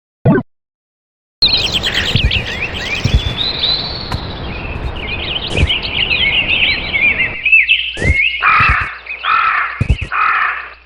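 Chorus of many birds chirping, starting about a second and a half in after a brief sharp sound, with several longer, harsher calls of about half a second each near the end.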